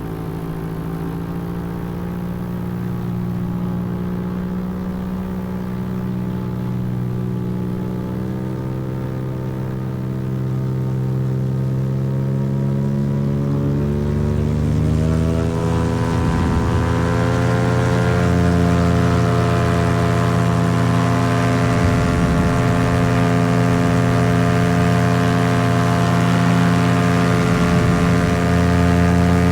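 Paramotor engine and propeller running steadily. About halfway through the throttle opens: the pitch rises, the sound gets louder, and it then holds at the higher setting.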